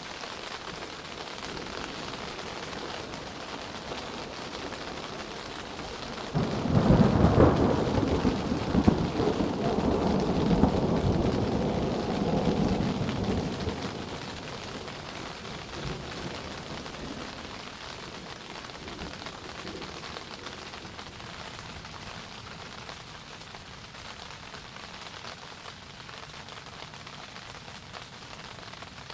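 Steady rain falling, with a sudden loud clap of thunder about six seconds in that rumbles on for several seconds and fades away.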